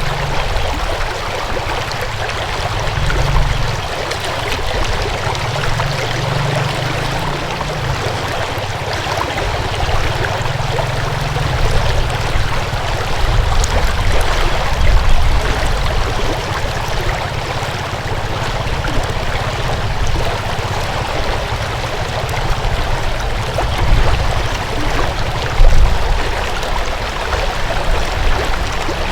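Flowing water in a stream, a steady rushing with a low, uneven rumble underneath and one brief louder bump near the end.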